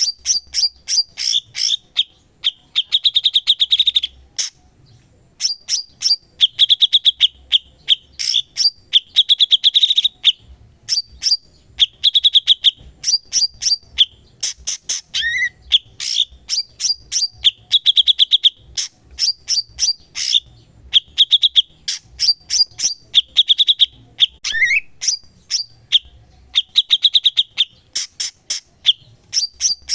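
Cucak cungkok songbird singing continuously. It gives a fast run of sharp high chirps broken every few seconds by rapid trills of about a second each, with an occasional short rising whistle.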